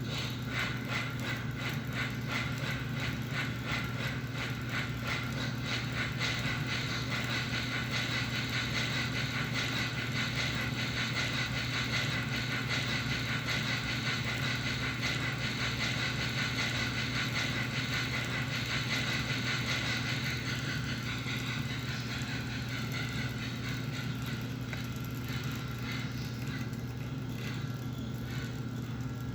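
American Flyer Atlantic model steam locomotive running on track. There is a steady electric hum with rapid, rhythmic chuffing from its Railsounds board, triggered by the chuffer board, and the chuffing grows fainter near the end.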